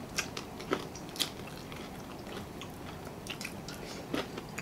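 Close-up eating sounds of sauced fried chicken being bitten and chewed, with scattered crunchy clicks; the sharpest crunches come about a quarter second in, just under a second in, just over a second in, and near the end.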